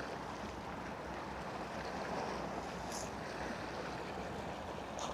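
Steady harbour background noise of water and wind, with no distinct event, and a faint high click about three seconds in.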